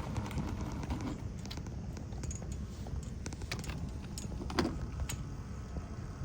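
Scattered light clicks and taps, with one louder knock about four and a half seconds in, over a steady low hum.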